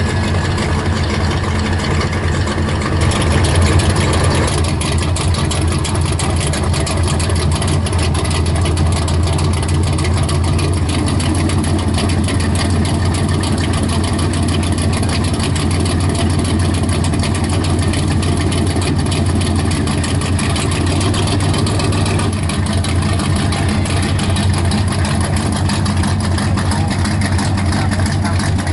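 Classic car engines running at low speed with a steady, deep engine hum, a little louder about three to four seconds in.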